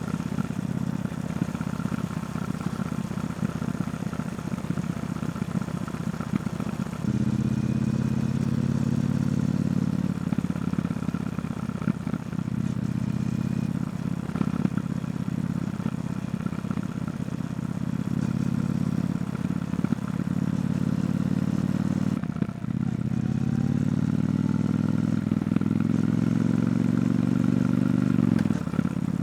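Triumph Bonneville T120 parallel-twin engine through its stock exhaust, ridden through traffic: a low, uneven note at first, then steadier pulls from about seven seconds in. Near the end the revs climb steadily for several seconds under acceleration, then drop off sharply.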